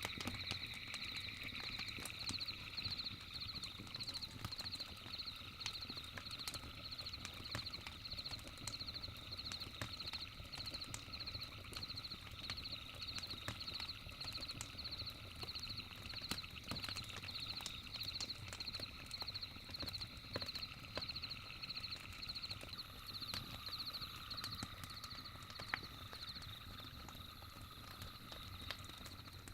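Campfire crackling with frequent sharp pops, over a steady, high, rapidly pulsing chirp of night insects.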